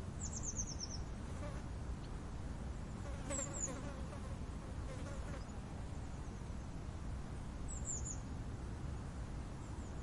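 Mountain outdoor ambience: a steady low wind rush with brief high bird chirps, a quick falling run of about six notes at the start and short chirps about a third of the way in and near the end. A faint insect buzz comes and goes around the middle.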